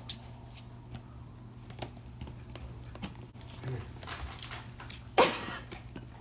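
Dogs moving about with scattered light clicks and taps, and one loud short sound about five seconds in that falls in pitch.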